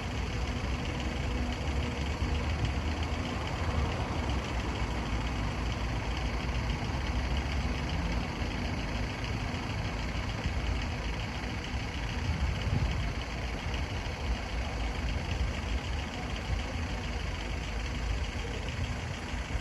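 Engine idling steadily, a constant low hum that neither rises nor fades.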